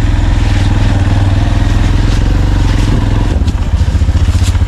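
Motorcycle engine running steadily on a sandy track. About three seconds in, the engine note drops into a slower, pulsing beat as the rider eases off, with a couple of light rattles near the end.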